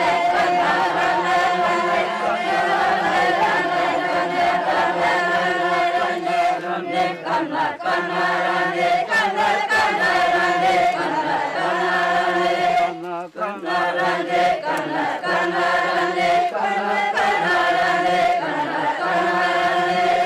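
A group of voices singing a chant together, unaccompanied, in held, repeated phrases, with two short breaks between phrases.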